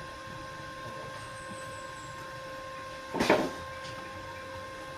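Steady high-pitched electrical hum, with one short, loud call whose pitch bends, a little over three seconds in.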